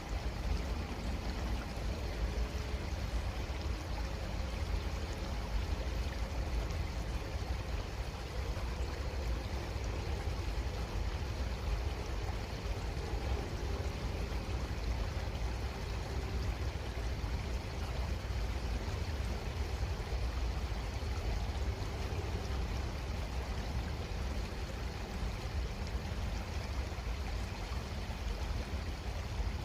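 Creek water flowing steadily, with a low rumble underneath.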